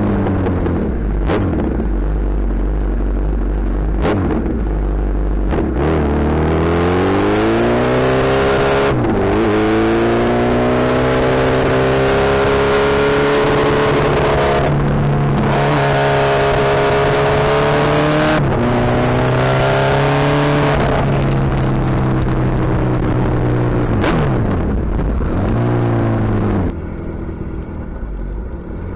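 Suzuki Hayabusa's inline-four engine through a loud exhaust, pulling up through the gears: the pitch climbs and drops back at each shift several times. It falls away as the bike slows, and goes quieter near the end.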